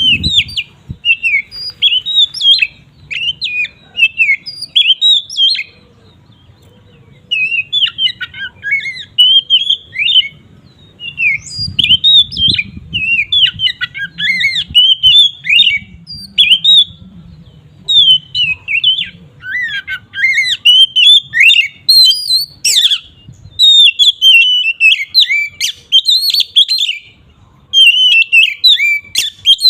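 Oriental magpie-robin (kacer) in full, open song (ngeplong): long, loud runs of rapid, varied whistled and chattering phrases, broken by a few short pauses.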